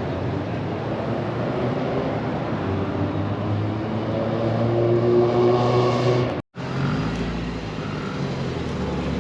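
Car engine running, growing louder to a peak about five seconds in; after a brief dropout in the sound, a deeper engine rumble.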